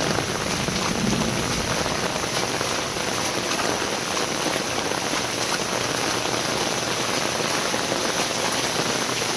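Heavy rain pouring down steadily, an even, unbroken hiss of falling drops.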